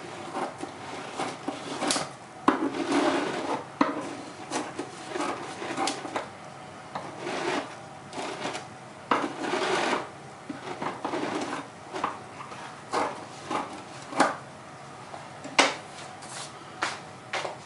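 Kitchen handling noises: irregular knocks, clatter and scraping of dishes and utensils, with rubbing in between.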